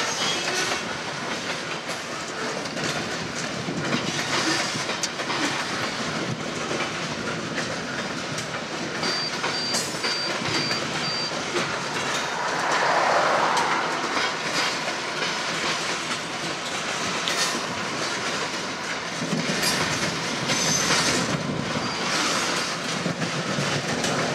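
Freight train of loaded open-top hopper cars rolling past, steel wheels clicking over the rail joints with a steady rolling noise from the cars. It swells louder for a moment about halfway through.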